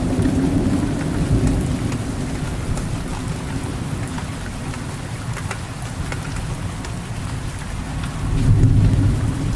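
Steady rain falling, with scattered drop ticks over a low rolling thunder rumble that fades through the middle and swells again near the end.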